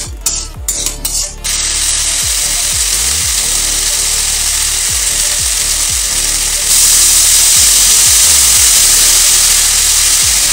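Potatoes and vegetables frying in hot oil in a kadai: a steady sizzle that starts about a second and a half in and grows louder and brighter about two-thirds of the way through.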